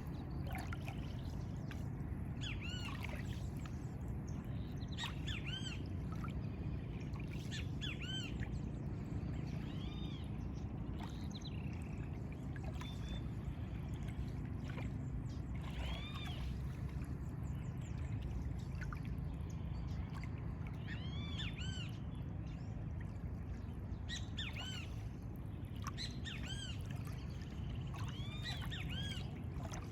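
Birds chirping in short, quick arched notes, several calling on and off, over a steady low rumble.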